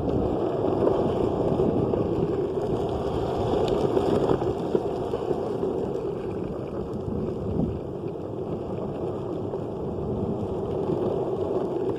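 Skateboard's large urethane wheels rolling steadily over gravelly pavement: a continuous rumble.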